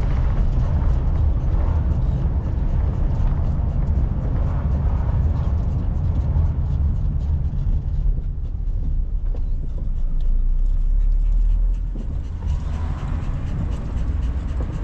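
Car interior while driving: a steady low engine and road-noise rumble, easing slightly about twelve seconds in.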